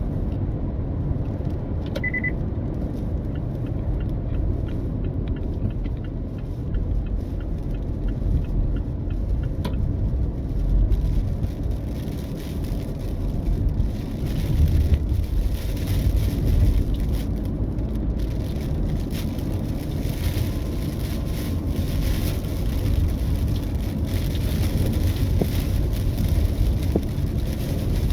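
Car being driven, with a steady low rumble of road and engine noise heard from inside the cabin. A single short high beep sounds about two seconds in.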